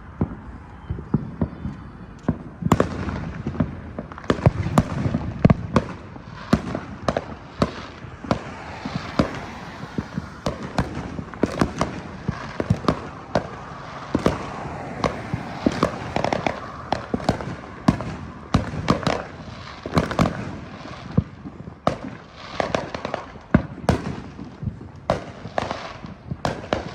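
Fireworks and firecrackers going off in a dense, irregular barrage of sharp bangs and crackling pops over a low rumble, picking up about two and a half seconds in.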